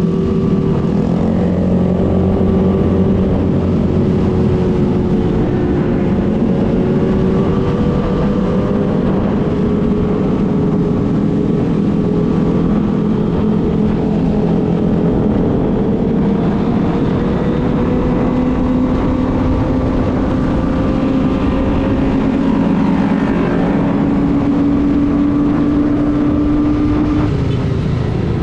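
Kawasaki ZX-25R's 250 cc inline-four engine running steadily while riding. Its pitch drifts slowly up and down, with no sharp revs or gear-change blips.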